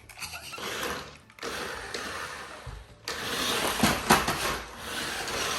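Electric motor of a remote-controlled monster truck whirring in bursts as it is driven, stopping and starting, with a couple of knocks about four seconds in.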